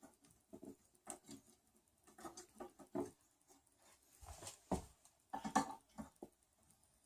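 Irregular small clicks, taps and scrapes of hands working M3 screws into 3D-printer frame parts, with a few louder knocks around the middle of the clip.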